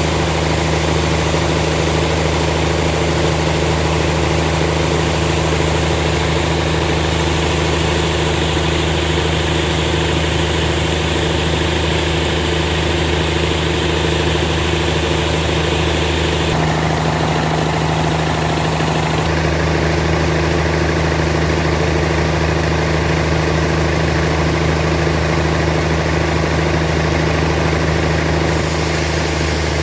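Sawmill machine's engine running steadily at an even pitch, a constant drone. Its sound shifts abruptly about 17 and 19 seconds in and again near the end.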